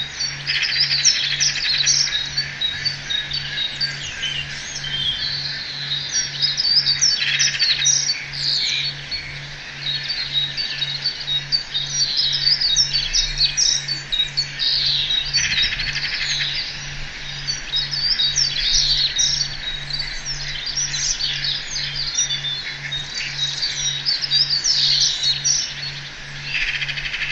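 A dense chorus of many small birds chirping and singing over one another, with an even low pulse repeating about one and a half times a second underneath.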